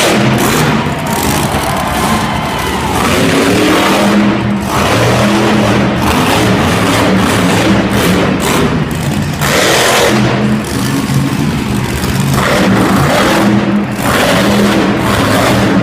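Loud engine revving hard over and over, its pitch climbing and dropping between surges, with repeated bursts of harsh noise.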